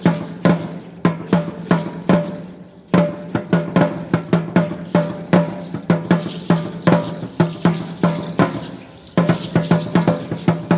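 A deep-toned dance drum beating a fast, driving rhythm for Aztec-Chichimeca dance. The strikes come in quick runs that break off briefly about 3 seconds in and again near 8.5 seconds, then start again.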